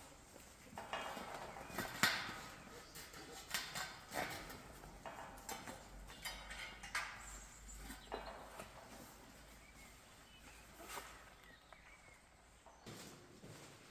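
Faint, irregular scuffs, clicks and knocks of someone moving about on a rocky floor and handling gear, with a few louder knocks.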